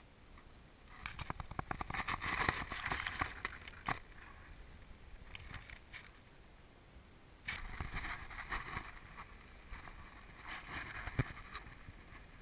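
Loose rock and gravel crunching and clattering in three bursts of a second or more each, with quieter gaps between.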